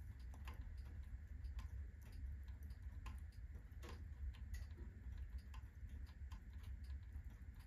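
Firewood burning in a fireplace at full blaze, crackling with sharp, irregular snaps, a few a second.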